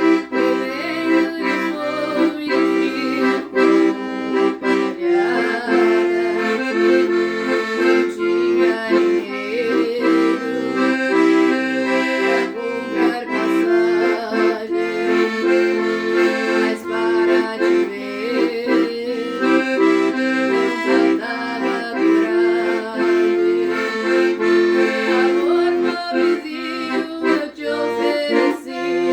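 Accordion playing a tune solo: a sustained melody over an even, pulsing bass accompaniment.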